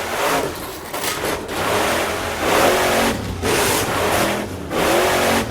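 Car engine revving and accelerating in repeated swells, a race-car sound accompanying the toy monster truck run.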